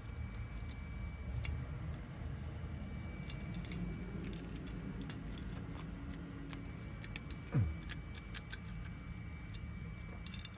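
Small metallic clicks and rattles of a key and lock wafers being handled while a Honda door lock cylinder is rekeyed and tested. About seven and a half seconds in there is a brief louder sound that slides down in pitch.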